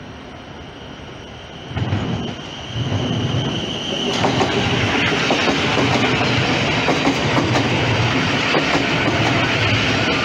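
Thameslink electric multiple-unit train passing close along the platform, its wheels clicking over the rail joints. It swells about two seconds in, with a high whine that stops about four seconds in, and then the passing noise is loud and steady.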